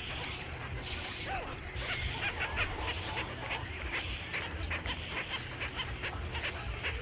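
Many birds chattering together: a dense stream of short, overlapping chirps that grows busier about two seconds in, over a steady low rumble.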